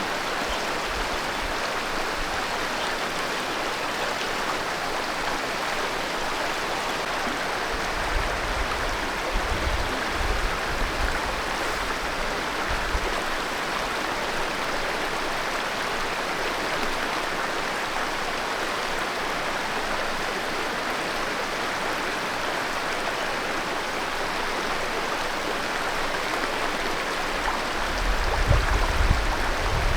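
Steady rush of running water. Low rumbles come in briefly about a third of the way in and again near the end.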